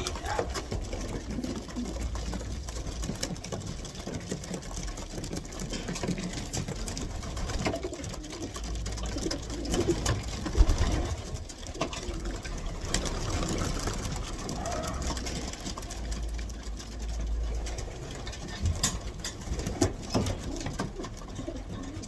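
Racing pigeons cooing in the loft, with scattered sharp clicks and taps and a low rumble that comes and goes.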